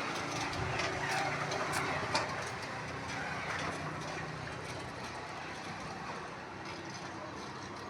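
Old Tata truck's engine running steadily, slowly growing quieter, with a few sharp clicks about two seconds in.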